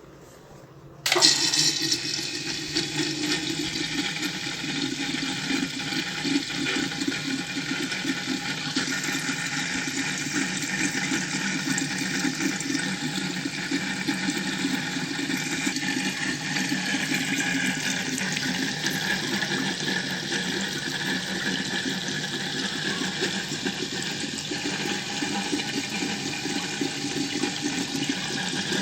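Small home-made tabletop water fountain, fed by a pump salvaged from an air cooler, starting suddenly about a second in and then running steadily: water splashing and trickling over stones into its basin.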